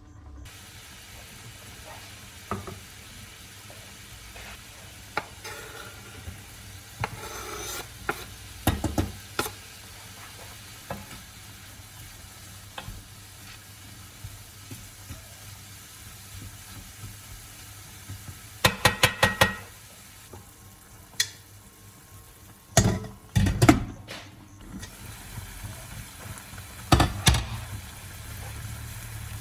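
Food sizzling in a pan while a utensil stirs it, with clinks and knocks of the utensil against the pan, including a quick run of about six clicks a little past the middle and a few louder knocks near the end.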